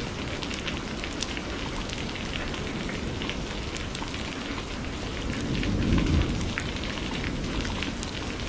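Steady rain falling, with many separate drops ticking on a surface. A low rumble of thunder swells and fades about two-thirds of the way through.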